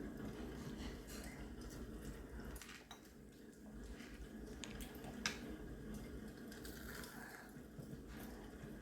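Quiet sounds of eating: scattered light clicks and clinks of dishes and utensils as food is handled, with one sharper click about five seconds in.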